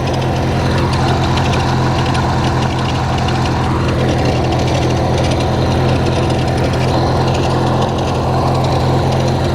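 Hechinger (MTD-built) riding lawn tractor engine running steadily at an even speed while the tractor is driven.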